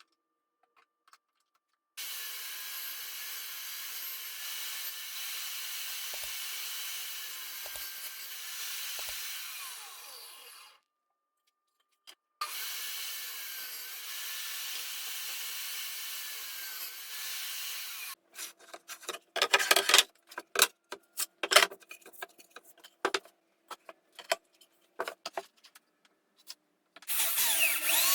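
A power tool working wood runs steadily in two long stretches, each ending abruptly. Then come a run of irregular sharp knocks and clicks, and the tool starts running again near the end.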